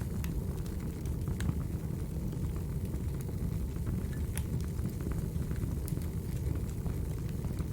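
Wood fire burning: a steady low rumble with scattered sharp crackles and pops from the logs.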